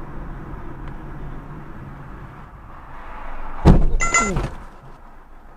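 Steady car road noise, then a loud collision about three and a half seconds in: a heavy impact followed by about half a second of metallic scraping and squealing as the vehicles crunch together.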